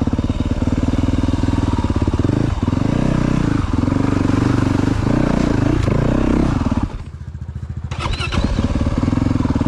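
Yamaha YZ450F dirt bike's single-cylinder four-stroke engine running under changing throttle, its revs rising and falling several times. About seven seconds in the throttle is shut and the engine drops away, quieter for about a second, before pulling again.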